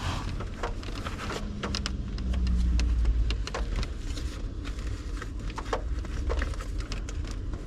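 Pens and small plastic items clicking and clattering as they are handled and sorted, over a low rumble.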